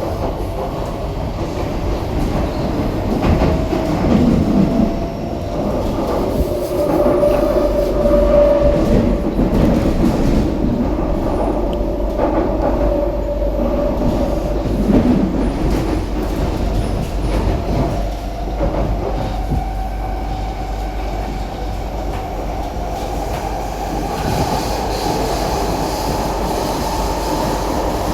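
SMRT C151B metro train running between stations, heard from inside the car: traction motor whine over wheels rumbling and clacking on the rails. The whine climbs in pitch over the last several seconds.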